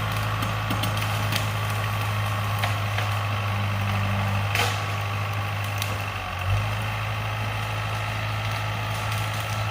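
Heavy diesel equipment engine running steadily with a constant low hum, and a few sharp clanks or knocks.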